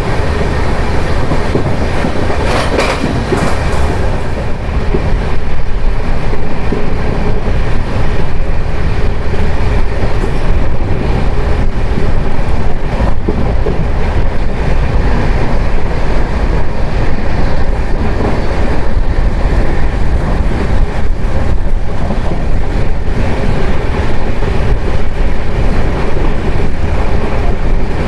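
Jan Shatabdi Express passenger train running along the line: a loud, steady rumble of wheels on the rails.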